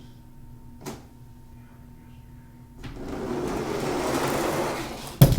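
Die-cast toy monster truck rolling fast down a plastic Hot Wheels track, its wheels making a rising, whirring rumble, then clattering down hard with a few sharp knocks near the end as it lands.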